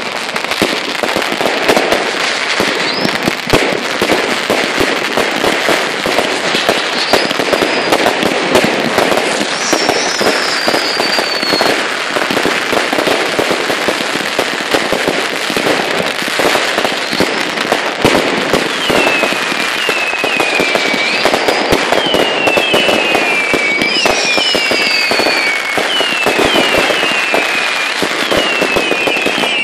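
Fireworks finale: a dense, continuous barrage of bangs and crackling, with high whistles gliding down in pitch that come thicker in the second half.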